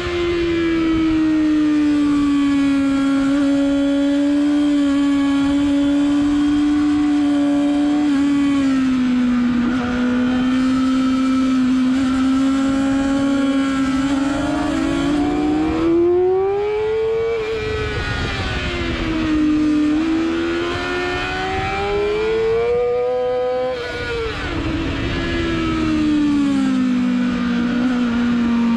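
Sport motorcycle engine running hard at speed on a track, heard from on the bike with wind rush on the microphone. The engine note holds steady, then climbs and falls back twice in the second half, with a sharp drop about twenty-four seconds in.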